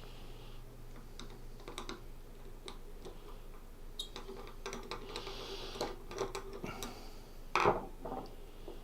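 Screwdriver working the Phillips head screws out of a microwave waveguide switch's top cover: scattered light clicks and ticks of small parts, with a louder clack about seven and a half seconds in.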